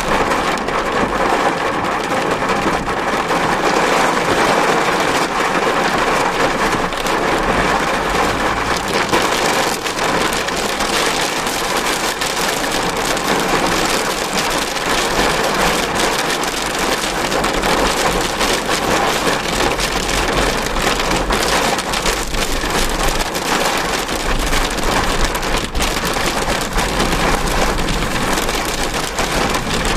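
Heavy rain beating on a car: a loud, steady hiss made of countless individual drop hits.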